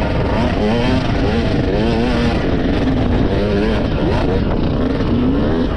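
Enduro motorcycle engine under way, its pitch repeatedly rising and falling as the throttle is worked on and off.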